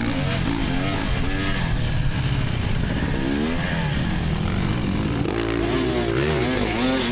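A 2024 GasGas EX300's two-stroke engine being ridden hard, its pitch climbing and dropping over and over as the throttle is opened and closed.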